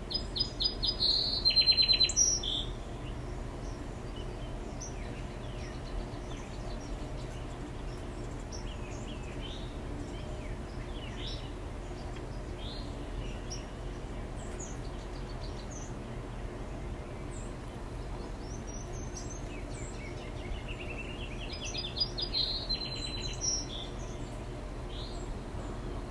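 A songbird sings two short phrases of rapid repeated high notes, one at the start and another about twenty seconds in, with faint scattered chirps between them. A steady low hum runs underneath.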